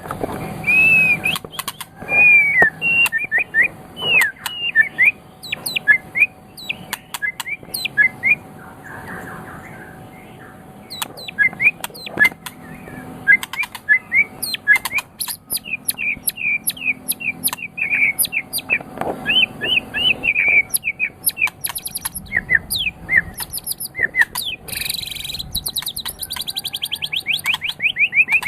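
White-rumped shama (murai batu) singing a varied song of slurred whistles and sharp chips, with a fast, rattling trill of rapid repeated notes about three quarters of the way through.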